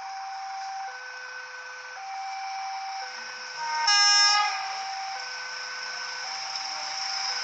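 Railway level-crossing warning alarm alternating between two tones, about a second each. About four seconds in, a locomotive horn sounds once, briefly and loudly, over it.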